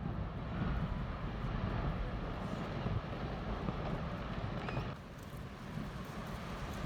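Low, steady rumble from glacier ice collapsing into the sea and the wave it raises. It eases slightly about five seconds in.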